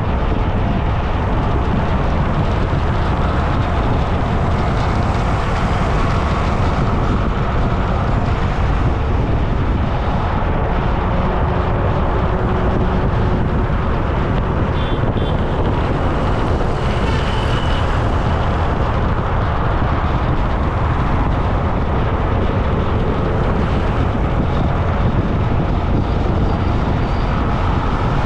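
Steady road and wind noise while riding along a road: a loud, continuous rumble, heaviest in the low end, that never lets up.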